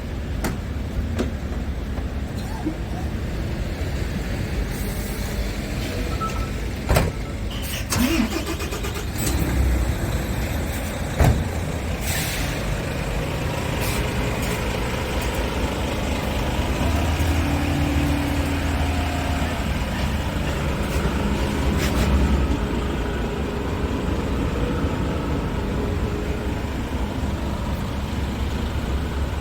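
Scania R450 tractor unit's 13-litre inline-six diesel running at a steady idle, with a couple of sharp clicks about seven and eleven seconds in.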